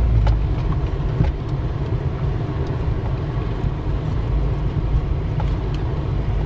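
Vehicle driving over rough, bumpy ground: a steady low rumble with scattered light rattles and knocks.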